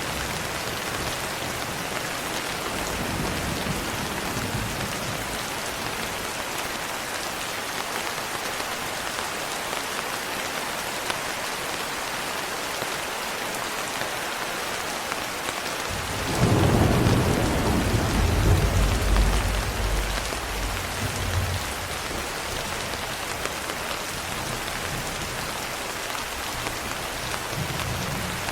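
Steady rain falling, with a low roll of thunder starting a little past halfway and dying away over about five seconds.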